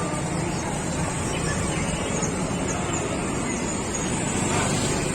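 Bird market ambience: a steady rumble of passing traffic with a few faint high bird chirps about two to three seconds in.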